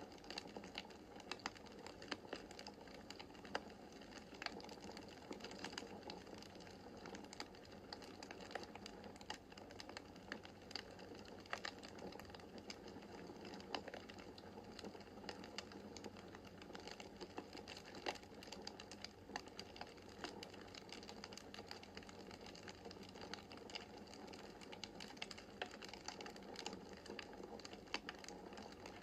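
Wood fire crackling in a fireplace: frequent irregular small snaps and pops over a steady soft background of the burning fire.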